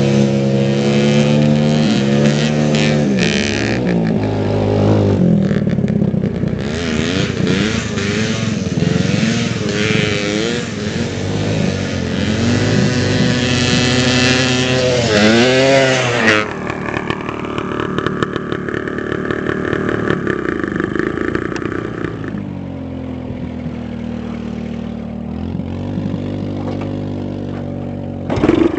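Dirt bike engine revving up and down repeatedly as it rides. About halfway through it drops to a lower, steadier running, then picks up again near the end.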